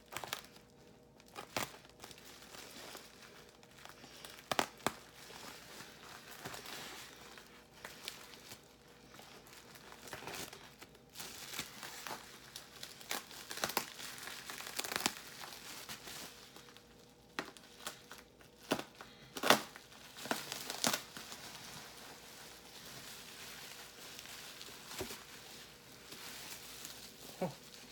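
Packing material being unwrapped by hand, crinkling and rustling with irregular sharp crackles and some tearing; the loudest crackle comes about two-thirds of the way through.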